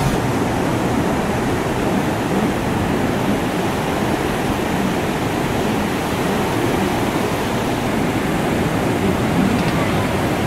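Steady, loud rushing of wind and water spray from a jet ski under way.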